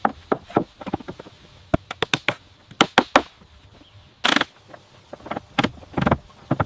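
An irregular run of sharp knocks and taps, several a second, like hand tools working timber in construction. A short scraping rasp comes about four seconds in.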